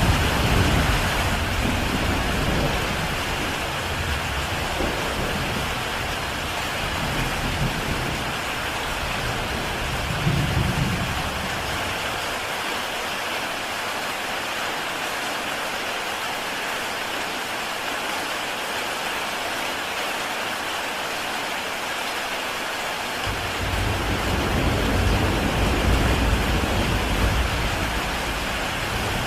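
Heavy rain pouring steadily onto a tile roof, a dense even hiss. Low thunder rumbles fade out over the first few seconds and swell up again for several seconds near the end.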